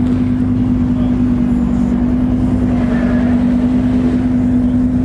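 A car engine running with a steady drone at one constant pitch.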